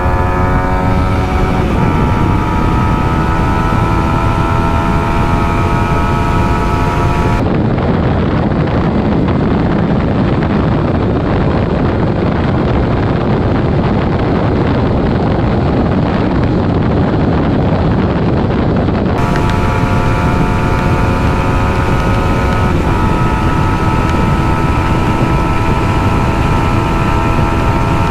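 Yamaha 155cc single-cylinder motorcycle engine held at high revs during a top-speed run, its note steady with a small step in pitch a couple of times. For a long stretch in the middle, wind rumbling on the microphone covers the engine.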